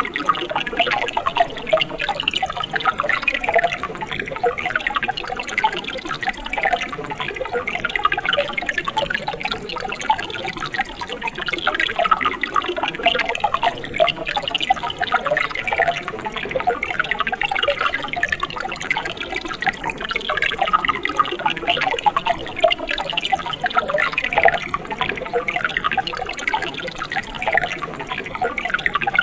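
Mountain stream water flowing and burbling steadily, an unbroken wash of small splashes.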